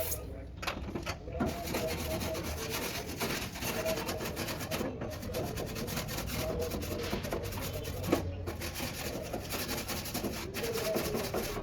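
Steady, fast rubbing and scraping strokes on a surface, like hand sanding or filing in truck cabin bodywork, with a single sharp knock about eight seconds in.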